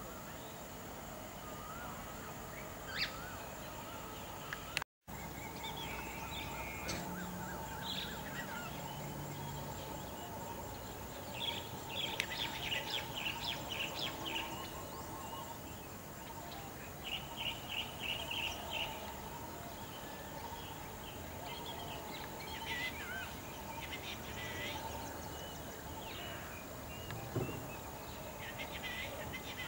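Bird chirping in several short bursts of quick, high notes, over a steady outdoor background hum.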